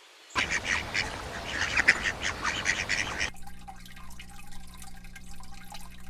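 Ducks quacking in quick succession for about three seconds. The sound then cuts off abruptly to a quieter steady low hum.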